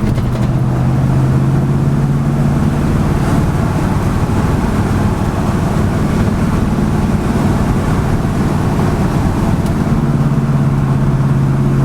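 A 1978 Chevy K30 pickup carrying a truck camper under way, its engine running with a steady low drone over road noise. The drone's pitch is clearest at the start and again near the end.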